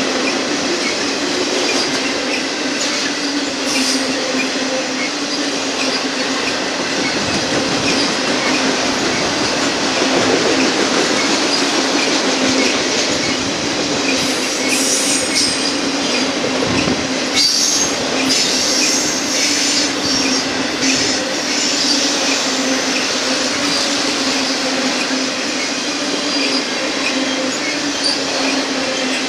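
Union Pacific auto rack freight cars rolling steadily past on the downgrade, their steel wheels squealing against the rail. A cluster of wheel clicks and knocks over the rail joints comes about halfway through.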